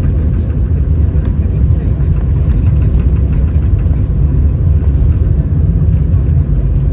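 Steady low rumble inside the cabin of an Airbus A319 on the ground after landing, with its CFM56 engines running at idle while the aircraft taxis.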